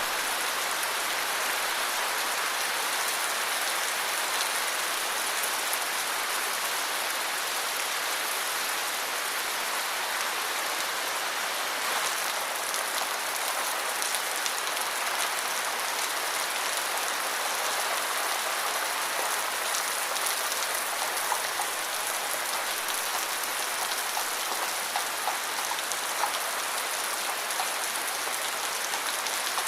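Steady, heavy rain: a dense, even hiss of falling rain with occasional louder individual drops standing out, most between about 20 and 27 seconds in.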